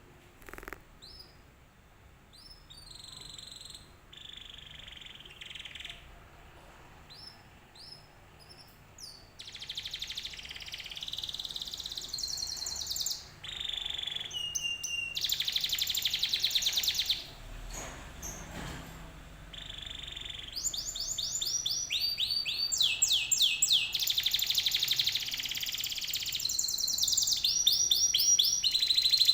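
Domestic canary singing: scattered short high chirps at first, then from about nine seconds in a long run of rapid trills and fast repeated sweeping notes, growing louder toward the end.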